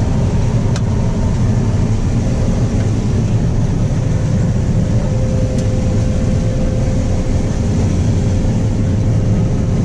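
Combine harvester running under load while harvesting corn, heard from inside the cab: a steady, even machine noise, joined about two seconds in by a faint steady whine.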